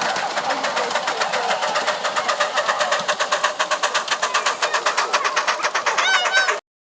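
Miniature steam locomotive working, its exhaust beats coming in a rapid, even rhythm of about ten a second. A short wavering high-pitched sound comes near the end, and then the sound cuts off suddenly.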